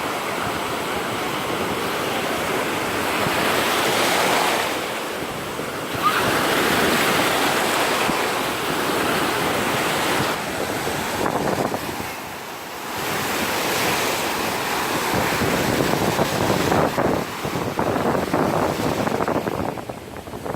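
Black Sea surf breaking and washing up a sandy beach, the noise swelling and easing with each wave, with wind on the microphone.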